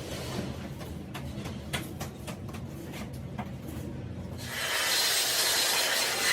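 Light scattered clicks and taps over a low hum, then a loud steady hiss starting about four and a half seconds in, typical of air-powered or abrasive work on a part in the workshop.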